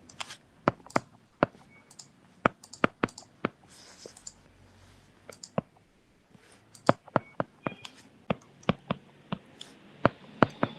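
Irregular clicks of a computer mouse and keyboard, in small quick clusters with short pauses, as a drawing is worked on at the computer.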